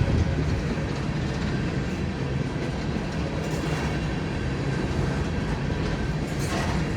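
Freight cars of a long train rolling past, a steady rumble of wheels on rail, smooth and quiet sounding. The cars are taken to be empty.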